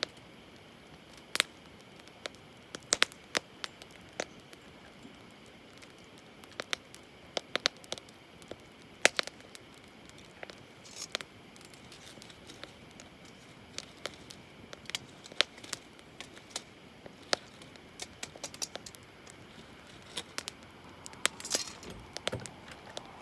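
Wood campfire crackling: irregular sharp pops and snaps over a low steady hiss. A brief louder rustle comes near the end.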